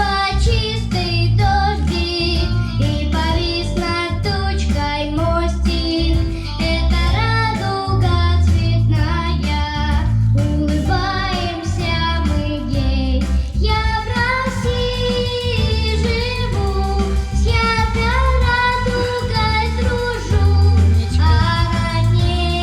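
A five-year-old girl singing a children's song over a backing track with a steady, pulsing bass beat.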